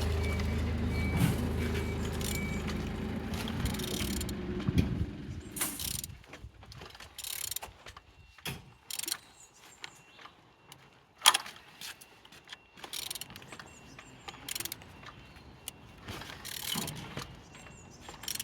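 An engine running steadily with a low hum that fades away about five or six seconds in. Scattered clicks and knocks follow.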